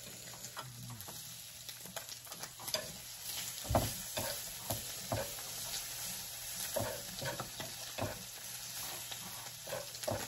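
Pork belly and onions sizzling steadily on an electric griddle, with scattered clicks and knocks of chopsticks and utensils against the griddle and dishes; the loudest knock comes about four seconds in.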